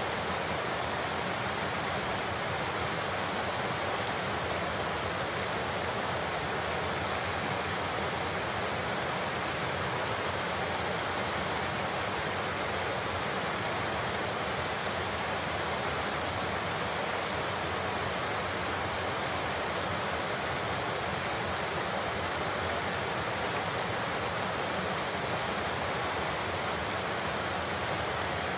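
Large waterfall pouring steadily: a constant, even rush of falling water with no change in level.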